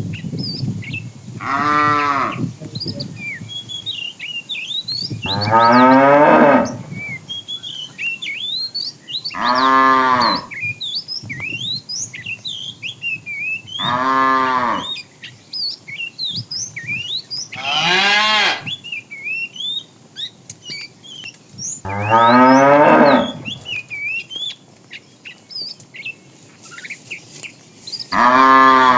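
Cows mooing: seven long, loud moos, one about every four seconds, each rising and then falling in pitch. Small birds chirp continuously between the moos.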